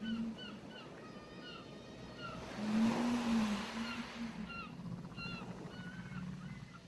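Ocean surf washing up the shore, swelling once about a third of the way in, with many short bird calls throughout. A low drawn-out tone of about a second sounds with the wave.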